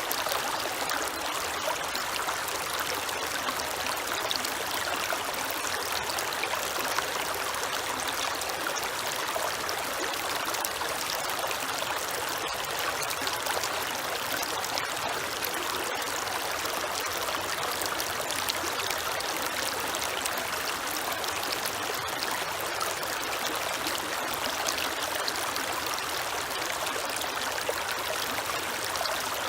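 A creek flowing and trickling steadily, a continuous rushing burble of water over stones with small splashes throughout.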